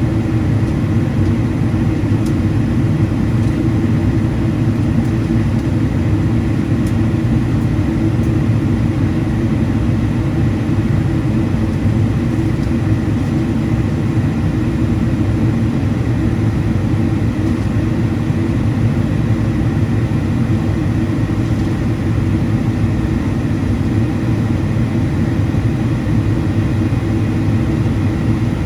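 Steady cabin noise of a Boeing 777-200ER in flight: a constant low rush of airflow and the hum of its GE90-92B turbofans, with a faint steady high tone above it.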